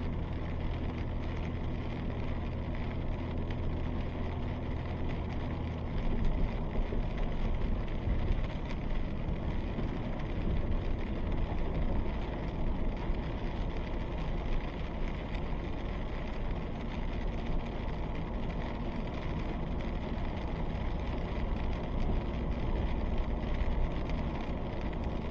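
Vehicle cabin noise: a steady low engine hum, which about six seconds in gives way to a louder, rougher rumble.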